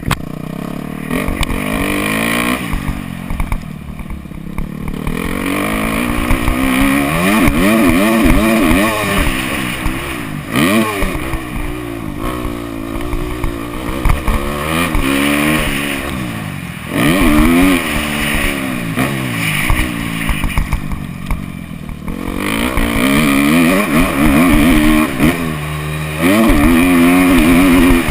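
Motocross bike engines revving hard and backing off over and over, their pitch climbing and dropping in repeated sweeps, with quieter lulls twice between the louder runs.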